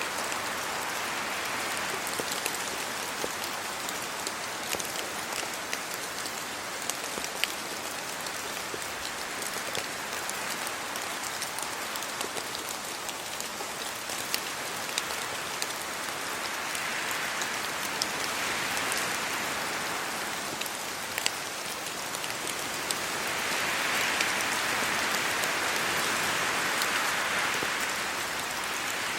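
Steady rain falling, an even hiss with many sharp drop ticks scattered through it. The hiss swells louder twice, once past the middle and for several seconds near the end.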